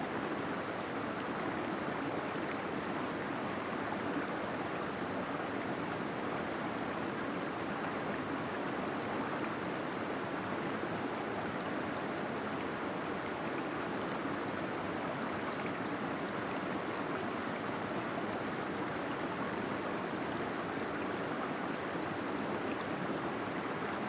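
Small waterfall splashing and gurgling steadily into a pool inside a cave, an even rushing water noise.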